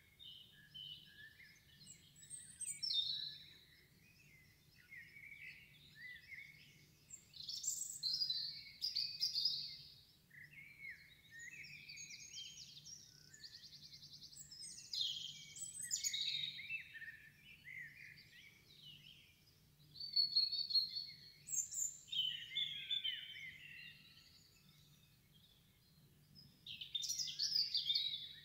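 Birdsong: a small songbird's high chirps, whistled glides and quick trills in bursts throughout, over a faint steady low hum.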